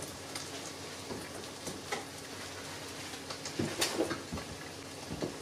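Scrambled eggs frying in an oiled wok, a low steady sizzle, with a few faint clicks and knocks.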